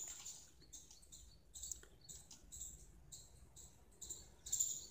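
Faint, scattered high-pitched bird chirps with light ticks in between, a little louder near the end.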